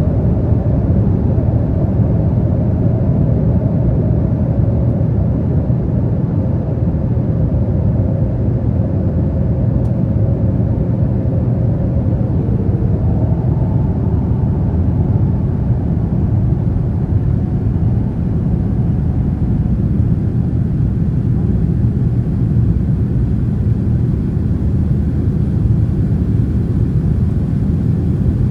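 Boeing 787-9 jet airliner, a steady low rumble of its engines and airframe. Faint tones in it fade and shift in pitch about halfway through.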